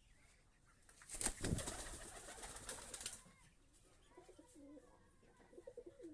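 Domestic pigeons cooing: low, wavering coos in the second half. Before them, about a second in, comes a loud rustling burst lasting about two seconds.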